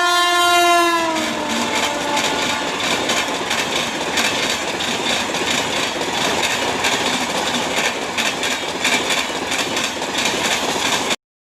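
A train sounding its horn as it passes, the horn's pitch dropping over the first two seconds, followed by the rushing clatter of coaches and wheels going by at speed. The sound cuts off abruptly about eleven seconds in.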